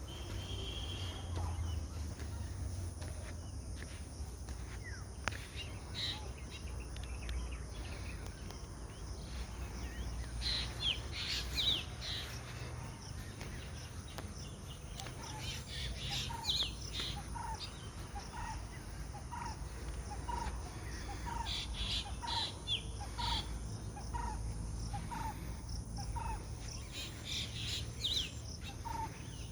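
Several birds chirping and calling in scattered flurries, with one short, lower note repeated about once a second from about halfway on, over a steady low rumble.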